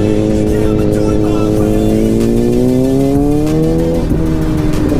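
KTM RC 390's single-cylinder engine under hard acceleration, its pitch rising steadily for about four seconds, then a short break as it shifts up a gear, with wind rushing over the microphone.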